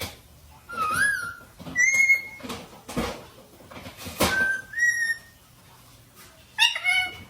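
A parrot whistling: a wavering whistle, then two held whistles, with short sharp clicks between them and a rougher call near the end.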